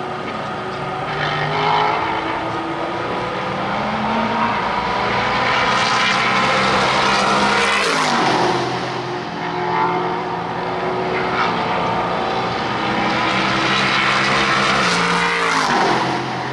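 Sports-car racing engines at full throttle, several cars at once, their pitch climbing as they accelerate, with a sharp drop in pitch about eight seconds in and again near the end as cars pass by.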